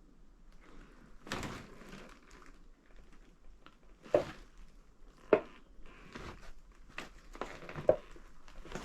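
Footsteps and handling noise on a cluttered floor: crinkling and crunching rustles with a few sharp knocks, the loudest about four, five and eight seconds in.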